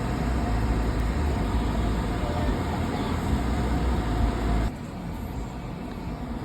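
Steady low rumbling background noise with a faint steady hum, dropping suddenly to a quieter rumble a little over four and a half seconds in.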